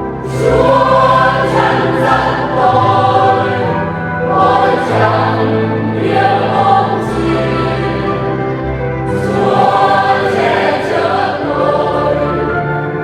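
Church choir singing a Catholic communion hymn in Vietnamese, in phrases of a second or two over held low accompaniment notes.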